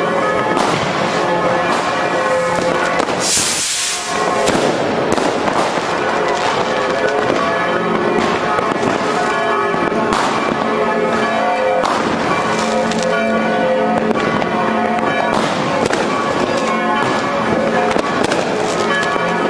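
Fireworks going off in quick succession, many bangs and crackles over the continuous ringing of church bells. A loud hiss about three seconds in.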